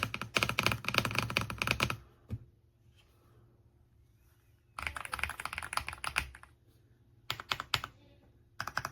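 Typing on an Aula F75 mechanical keyboard, in fast bursts of keystrokes: about two seconds of rapid typing at the start, another run a little before the middle, a few single presses later on, and a short run near the end.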